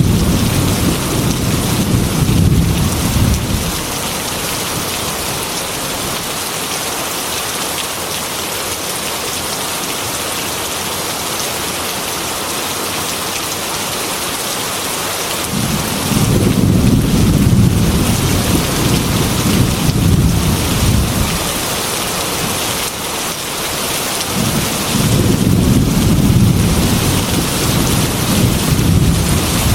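Heavy rain pouring steadily on a metal roof, with rolling thunder. One low rumble fades out in the first few seconds, another rolls in about halfway through, and a third builds near the end.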